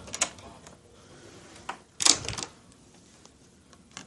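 Hotel room door being handled: sharp latch and handle clicks, with a louder clatter about two seconds in as the door swings and shuts.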